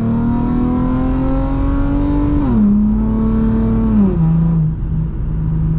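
Infiniti G37x's 3.7-litre V6 engine under acceleration, its note climbing steadily, then dropping sharply twice as the automatic shifts up, about 2.5 s and 4 s in, before settling into a steady drone.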